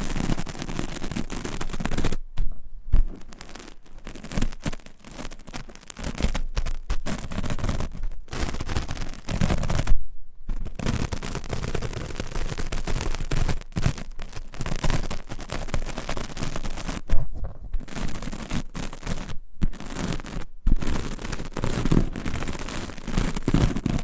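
Close-miked ASMR trigger sounds on a stereo microphone: an object rubbed and tapped right against it, a dense crackling scratch full of quick clicks, broken by several abrupt short silences.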